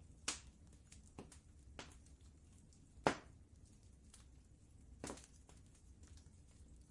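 Wood fire crackling: a scattering of sharp pops and faint ticks, the loudest about three seconds in, over a low steady rumble.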